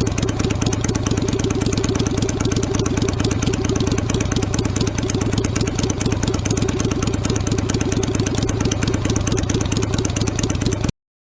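Yamaha Virago 250's air-cooled V-twin engine idling steadily in a fast, even pulse, cutting off abruptly near the end.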